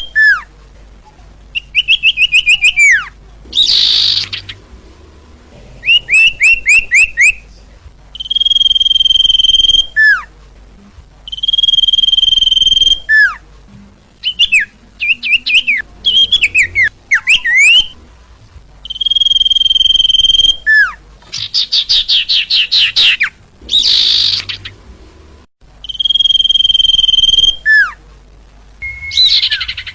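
Sirtu bird song played as a lure call: long, loud, steady whistles, each ending in a sharp downward slur, alternating with quick runs of rising chirps and short buzzy trills, repeated over and over.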